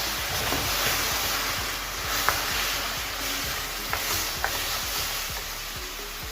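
Seasoned chicken sizzling in caramelised sugar in a hot pot, with a few sharp clicks of the spoon against the pot.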